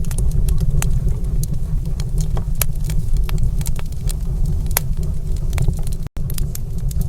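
Wood fire crackling in a fireplace: irregular sharp pops and snaps over a steady low roar. The sound cuts out for an instant about six seconds in.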